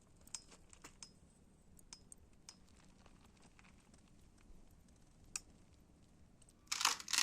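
Quiet, with scattered faint clicks and ticks, then near the end a sudden loud crumpling, crackling rustle.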